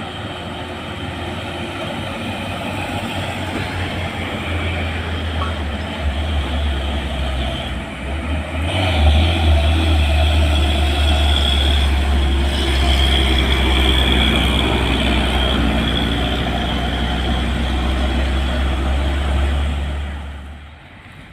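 Diesel engines of two laden trailer trucks labouring up a steep climb, a deep steady drone that grows louder as they come close, stays loud for about ten seconds, then drops away sharply near the end.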